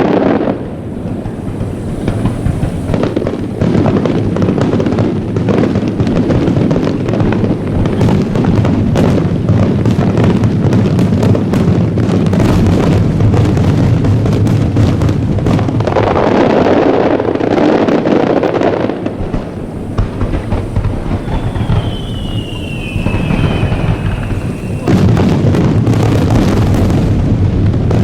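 Aerial fireworks going off in quick succession: loud, overlapping booms with dense crackling, growing louder again near the end. A short falling high tone sounds about twenty-two seconds in.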